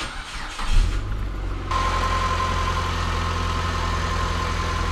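A car engine is started with a short clatter about a second in, then idles steadily with a constant whine. It is driving the automatic transmission's pump, which pushes old fluid out of the disconnected cooler line into a metal bucket with a steady hiss of pouring fluid.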